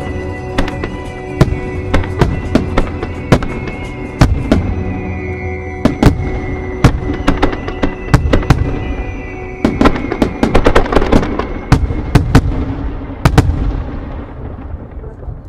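Fireworks display: aerial shells bursting one after another, with a dense run of bursts about two-thirds of the way through. Show music plays underneath and fades out near the end.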